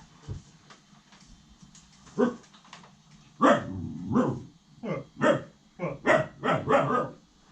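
A young puppy barking: a single bark about two seconds in, a longer one a second later, then a quick run of about six sharp barks near the end.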